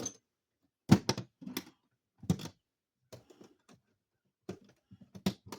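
Metal hand tools clanking and clicking as they are picked up off the ground: separate knocks, the loudest about a second in, and a quick run of small clicks near the end.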